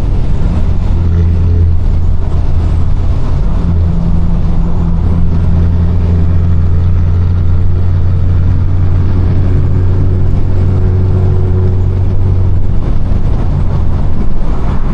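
Straight-piped BMW 428i's turbocharged 2.0-litre four-cylinder running at steady cruising revs, its exhaust a loud, steady low drone that becomes less even near the end.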